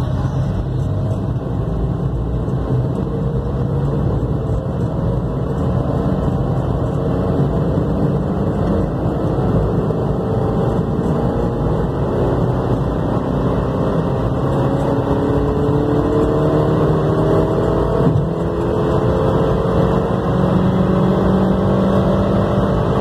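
Swift Dzire's engine heard from inside the cabin, pulling hard in third gear from low revs to high revs. Its pitch rises slowly and steadily as the car accelerates from about 20 to 130 km/h, over a steady road and tyre rumble.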